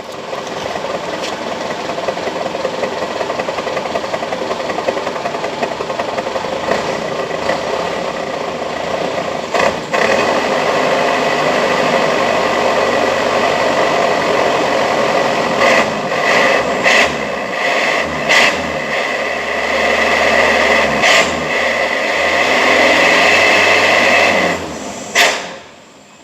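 Engine running through an aftermarket exhaust, revved and held at raised revs, with a few short sharp blips partway through. Near the end the revs drop away and it is blipped once more briefly.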